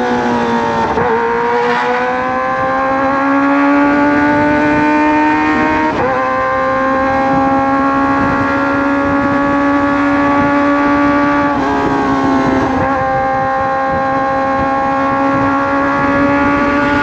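Kawasaki ZX-25R inline-four engine running under way through a Racefit Slash aftermarket exhaust. Its note holds a fairly steady pitch that slowly climbs, with brief dips about a second in, around six seconds and around twelve seconds, over a rush of wind.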